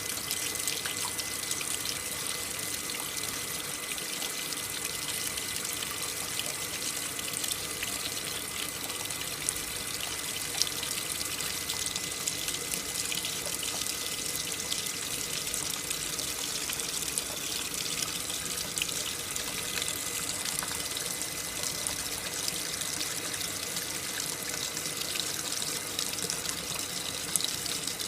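AQUA coin-operated top-loading washing machine filling its tub: a steady rush of water pouring in through the inlet valve, with a faint steady high tone under it.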